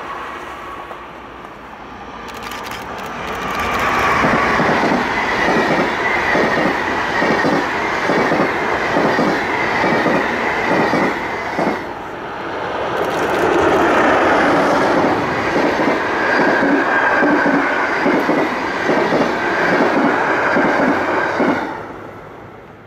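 Freight train rolling past, its wagon wheels clacking steadily over rail joints and points, with a thin wheel squeal above the rumble. It builds up a few seconds in and fades out at the very end.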